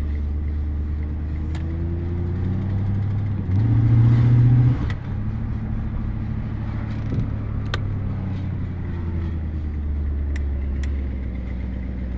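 Cadillac Seville's 368 cu in (6.0 L) V8 running steadily while the car drives along, heard from inside the cabin. About three and a half seconds in, the engine note gets louder for roughly a second, and a few light clicks are scattered through.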